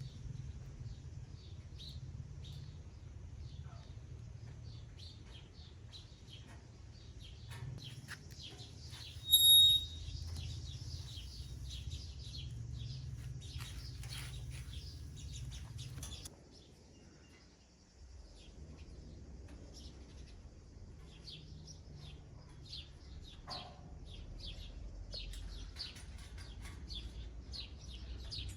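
Small birds chirping busily over a steady low rumble. About nine seconds in comes a single brief, high whistle-like tone, the loudest sound. A little past the halfway point the sound drops away for under two seconds, then the chirping resumes.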